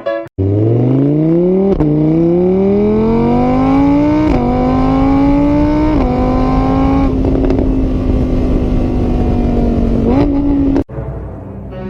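Car engine accelerating through the gears: the pitch climbs and drops back at each of three upshifts, then holds steady, rises briefly and cuts off suddenly.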